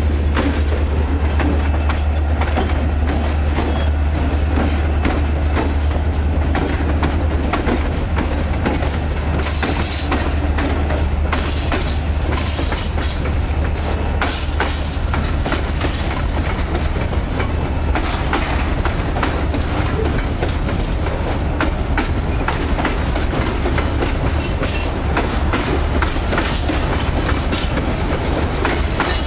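Freight train passing close: diesel locomotives running with a deep steady hum that drops away about seven seconds in, and wheels clicking over the rail joints as the wagons roll by.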